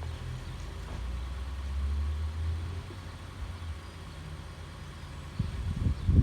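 Garbage truck engine running low and steady, swelling a little louder about a second in and easing back before three seconds.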